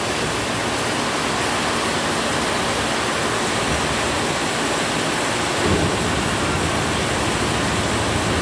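Heavy rain pouring down, a steady even hiss. Beneath it is the low rumble of an electric commuter train coming to a stop, which grows a little about five and a half seconds in.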